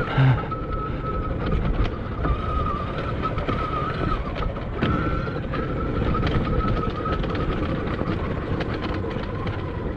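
Admitjet Armor electric dirt bike under way: its motor gives a steady high whine that dips slightly near the end, over a stream of clicking rattles from underneath the bike and wind buffeting the microphone. The rattle is one the rider cannot trace, even with every bolt checked and the kickstand tied up.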